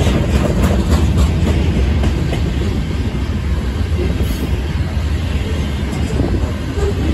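Covered hopper cars of a freight train rolling past close by: a steady low rumble of steel wheels on the rails, with a quick run of wheel clicks in the first couple of seconds.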